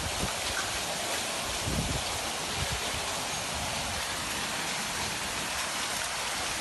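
Heavy downpour: steady rain hiss mixed with muddy floodwater rushing along the street. There are a couple of soft low thumps about two seconds in.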